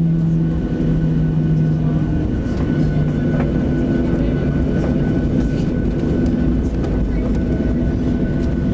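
Boeing 737NG's CFM56-7 jet engines running, heard inside the passenger cabin as a loud, steady rumble with a low hum. The hum shifts slightly in pitch in the first few seconds.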